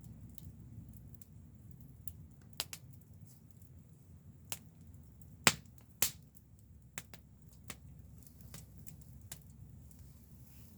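Wood fire crackling, with irregular sharp pops; the loudest come about five and a half and six seconds in, over a low steady rumble.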